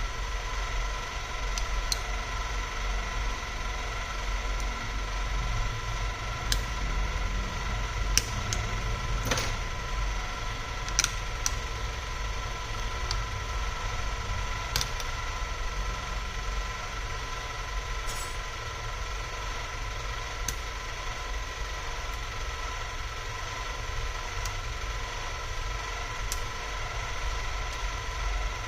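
A steady electrical hum with a low rumble and a faint whine of a few fixed tones, with scattered small clicks and taps of tools and parts being handled during a laptop repair.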